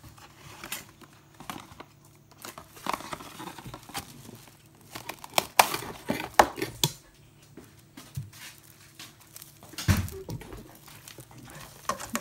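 Dry crinkling and tearing rustles in irregular bursts, densest in the middle, with a dull thump near the end.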